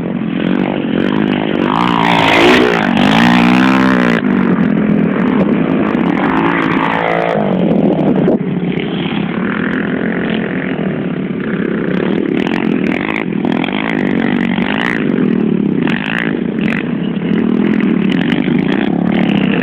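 Pit bike engines running and revving, their pitch rising and falling repeatedly, loudest about two to four seconds in.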